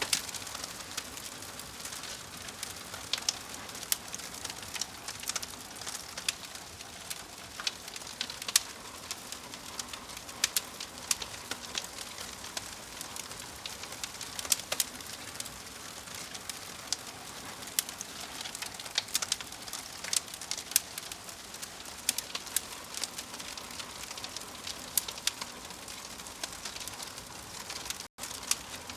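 Wood logs burning in a fireplace: a steady hiss with frequent, irregular sharp crackles and pops. The sound cuts out for an instant near the end.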